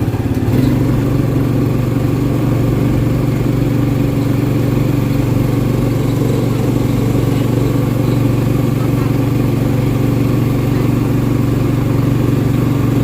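A vehicle engine running at a steady speed: an even, unbroken low drone.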